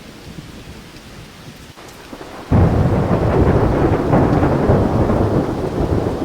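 Rain falling steadily, then a loud rumble of thunder breaks in about two and a half seconds in and keeps rolling over the rain.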